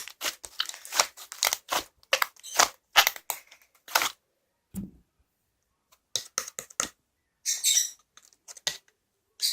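Slime being squeezed and stretched by hand, making quick sticky pops and crackles. A dense run is followed by a pause of a second or two, then more scattered clusters of clicks.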